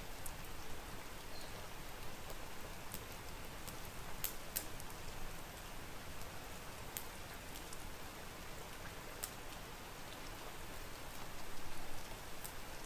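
Steady rain, an even hiss with scattered sharp ticks of drops, a couple of them louder about four seconds in.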